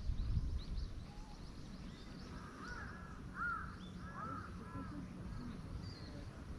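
A bird calling outdoors: a quick series of short, arched notes starting about two and a half seconds in and stopping a couple of seconds later, over a low steady rumble.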